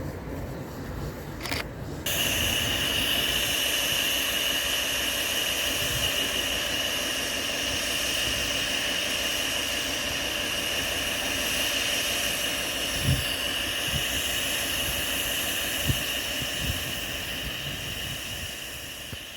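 Steam hissing steadily from the standing steam locomotive Caledonia Works No.1219. The hiss starts abruptly about two seconds in and fades near the end, with a few faint low knocks partway through.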